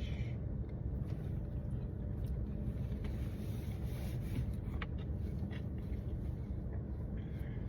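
Steady low background rumble with a few faint short clicks about five seconds in.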